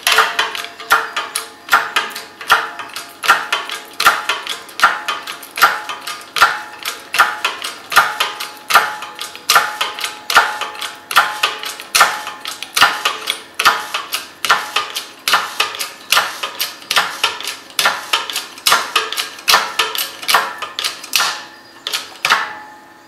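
Hydraulic jack in a homemade shop press being pumped by hand, its handle and steel frame clicking and clanking with a short metallic ring about twice a second while it presses steel plate into a 90-degree bend. The pumping stops near the end.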